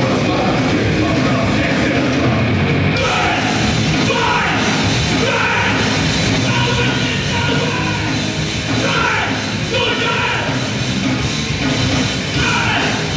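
Live grindcore band playing loud, with distorted guitars, bass and drums; shouted vocals come in about three seconds in.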